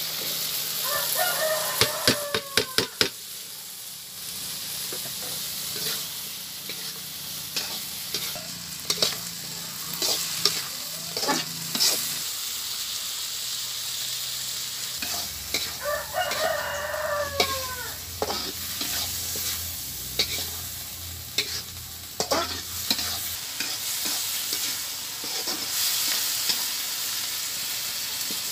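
Young corn and sausage sizzling in a wok over a wood fire while a metal spatula scrapes and clinks against the pan. A rooster crows twice, about a second in and again around sixteen seconds in.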